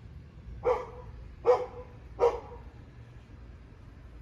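A dog barking three times, short barks spaced a little under a second apart.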